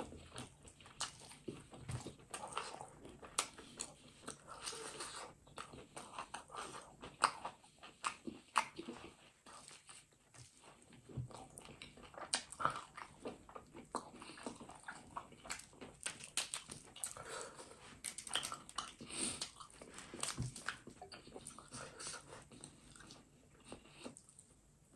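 A person chewing mouthfuls of duck curry and rice eaten by hand, with a steady run of short, wet smacking and clicking mouth noises.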